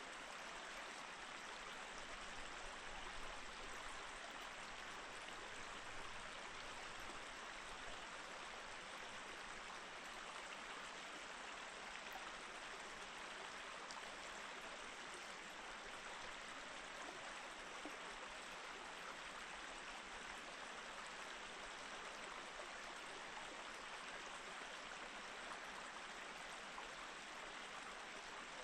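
Mountain stream flowing steadily over rocks, an even rushing and trickling of water.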